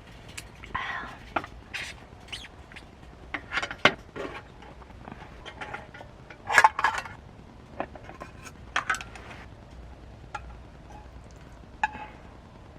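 Scattered clinks, knocks and rustles of camp gear and cookware being handled, in irregular bursts. The loudest come about four seconds in and again around seven seconds.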